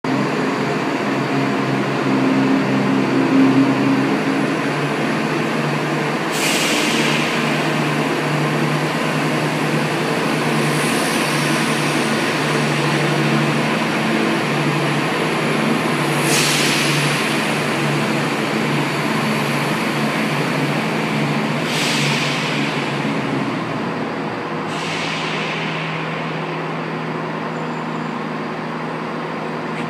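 Passenger train at a station platform: a steady low engine hum, broken by four short hisses of air spread through.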